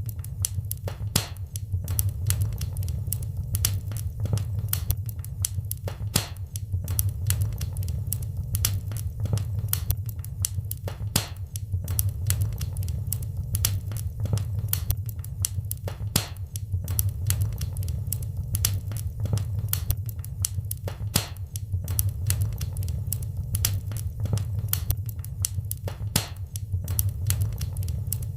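Wood fire crackling steadily in a fireplace, with many sharp irregular pops and snaps over a low rumble of burning.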